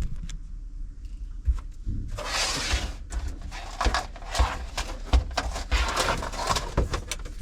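Handling noise from a steel fish tape being reeled out and fed down a hole in the floor: a short scratchy scrape about two seconds in, then irregular clicks and scraping.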